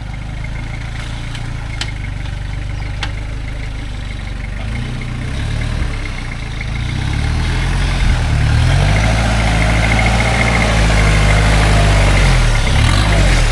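Turbo-diesel engine of a Toyota LN106 Hilux idling, then revving up and pulling harder from about five seconds in, getting louder through the second half. Two sharp clicks sound early on.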